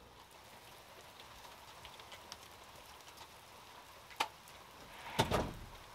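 Steady summer rain falling, an even light hiss. A sharp click about four seconds in and a louder short bump just past five seconds.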